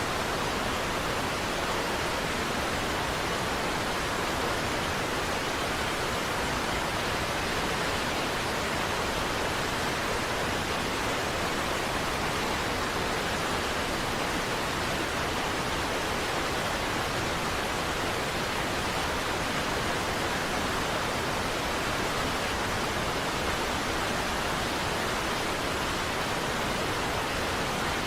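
Niagara Falls: falling water in a steady, even rush that does not change.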